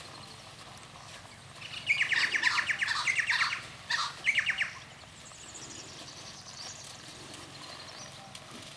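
Wild birds calling: a fast chattering run of repeated notes starts about two seconds in and lasts about two seconds, followed by two short bursts, then faint high chirps near the end.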